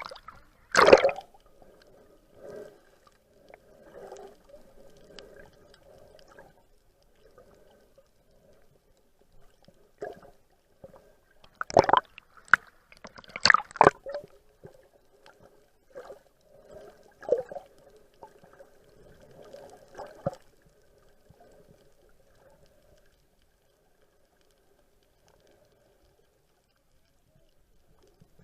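Water splashing and gurgling around a boat, with a few sharp, loud splashes or knocks. The sound cuts out a few seconds before the end.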